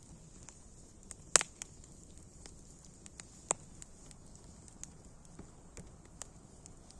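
Wood fire crackling over a faint steady hiss, with scattered sharp pops, the loudest about a second and a half in and another near halfway.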